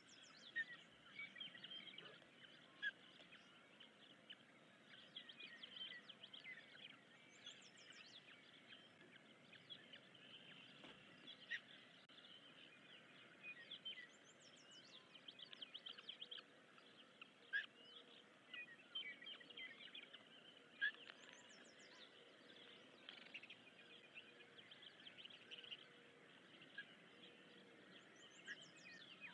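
Faint bird chirping: many short high cheeps and peeps throughout, with a separate short, higher buzzy trill repeating about every seven seconds.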